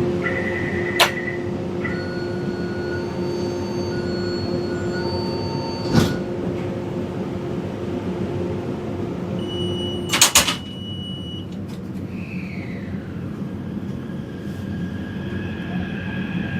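Inside a Taipei Metro train at a station: short warning beeps, then the sliding doors close with a clattering thump about ten seconds in. The hum stops and rising motor tones begin as the train starts to pull away.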